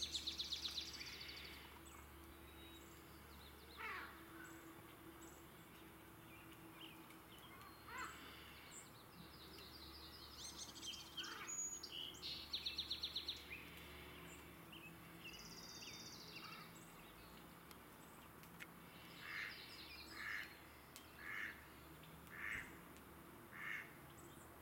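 Wild birds calling: short, fast, high trills near the start and about halfway through, and near the end a run of about six lower calls roughly a second apart.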